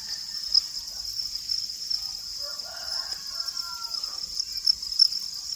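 Crickets chirping in a steady, high-pitched chorus, with a few louder pulses standing out.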